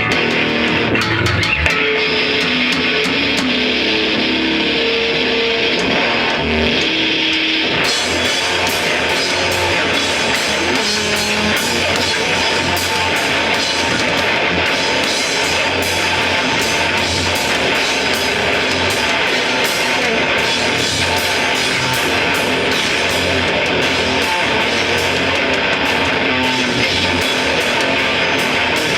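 Loud live rock band playing, with distorted electric guitar and drum kit. Held guitar notes carry the first few seconds, and cymbals come crashing in about eight seconds in.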